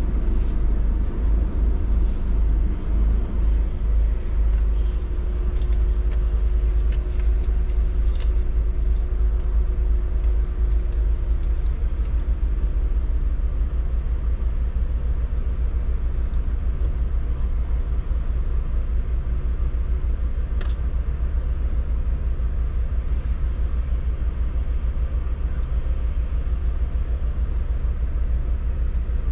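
Steady, deep rumble of a car, with a faint hum in the first half and a few light ticks.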